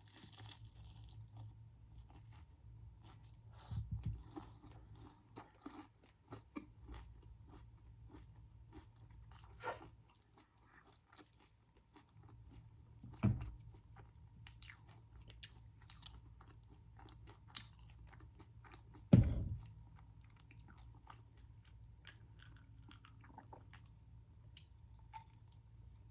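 Close-miked crunching and chewing of a crispy fried Korean mozzarella corn dog. Three harder bites stand out, the loudest a little past two-thirds of the way through.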